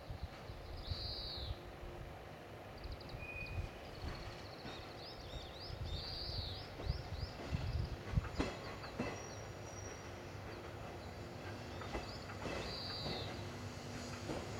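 Faint rumble of a JR 485 series electric train approaching slowly, with a few clicks of its wheels over rail joints and points from about halfway through and a steady hum joining near the end. Small birds chirp repeatedly.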